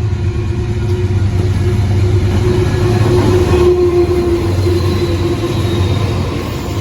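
Train rolling past, a steady low rumble with a held tone that swells a little past the middle and then eases.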